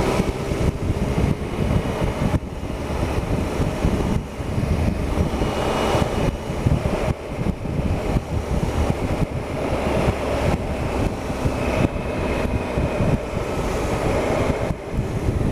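Triumph Explorer 1215cc three-cylinder motorcycle engine running steadily under way, with wind noise on the camera microphone.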